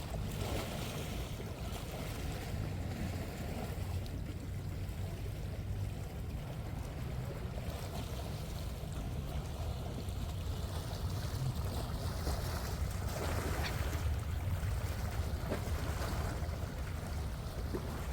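Steady low rumble of wind on the microphone with sea waves washing against the shore.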